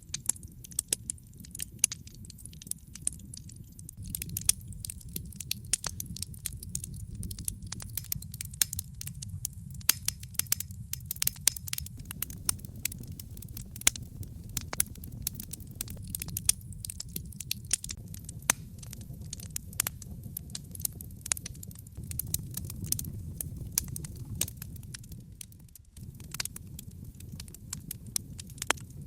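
Burning logs in a fireplace crackling, with frequent irregular sharp pops and snaps over a steady low rumble of the fire.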